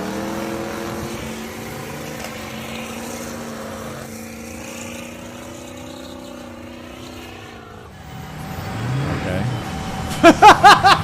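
Mega truck engine running at a steady pitch, then revving up about eight seconds in. Near the end come loud, rapid pitched bursts that rise and fall.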